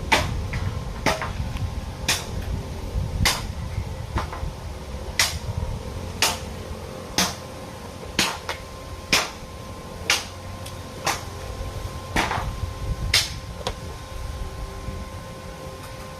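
Hammer blows struck at a steady pace of about one a second, each a sharp crack, over a steady low hum.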